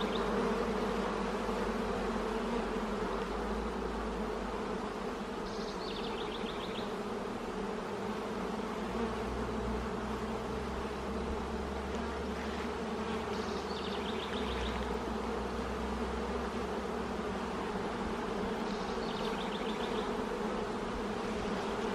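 Honey bees buzzing in a steady, dense hum around an open hive during a frame inspection. A faint, short high chirp recurs every few seconds above the hum.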